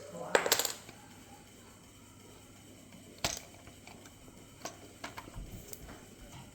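Lego bricks being handled: a quick cluster of small hard plastic clicks at the start, a single sharp click about three seconds in, then a few scattered lighter clicks and taps near the end.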